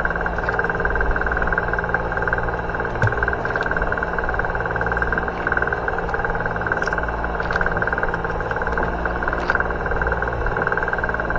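Boat engine running steadily with a constant low rumble and a steady whine, a few faint clicks over it.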